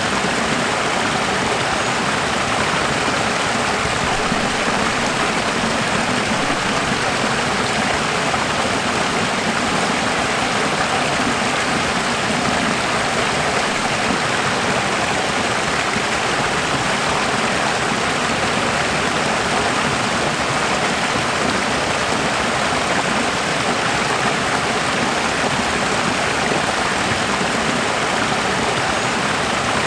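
Running water rushing steadily, an even, unbroken wash of sound with no drops, splashes or changes.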